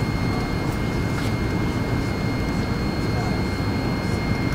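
Steady jet airliner cabin noise heard from a passenger seat: an even low rumble of the engines and airflow, with a thin high steady whine.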